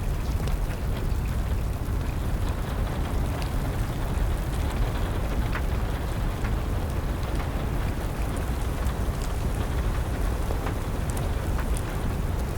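Steady rain over a deep low rumble, with scattered sharp pops and crackles of a burning wood fire.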